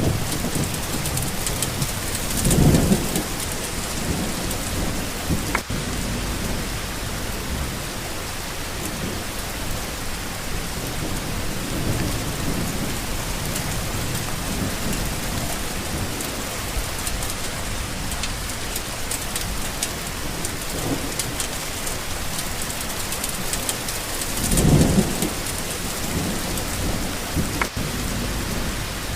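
Steady, even rain falling, with two brief low rumbles, one a couple of seconds in and one near the end.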